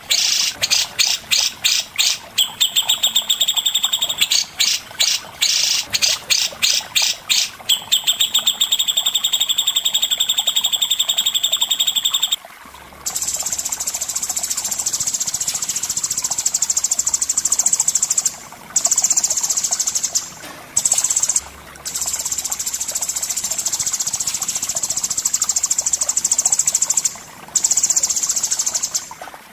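Caged songbird singing: fast, harsh, repeated high notes at about four to five a second for the first dozen seconds, then a long, high, buzzing trill that breaks off briefly a few times.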